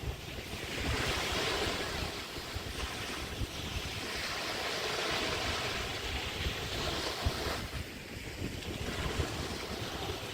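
Small bay waves washing onto a beach, coming in swells that build and fade over a few seconds each, with wind rumbling on the microphone.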